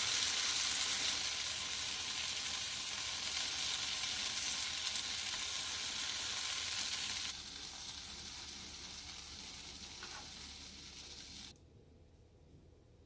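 Tomatoes frying in olive oil in a pan, sizzling with a steady hiss. The sizzle drops sharply in level about seven seconds in and stops abruptly about eleven and a half seconds in.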